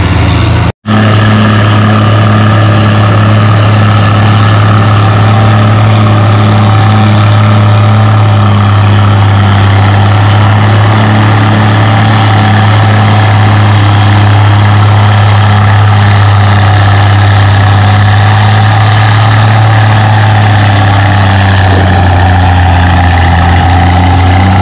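Vintage farm tractor engine running hard at a steady, governed speed while pulling a weight-transfer sled. The sound breaks off for an instant just under a second in, then holds an unchanging pitch.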